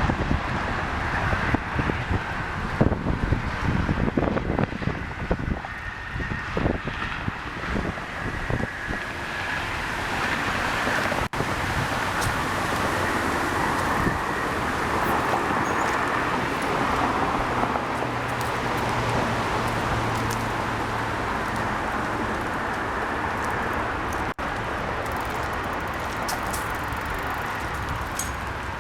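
Wind buffeting the microphone of a moving bicycle, over a steady roar of road traffic. The gusty rumble is heaviest in the first third, then settles into an even traffic hiss.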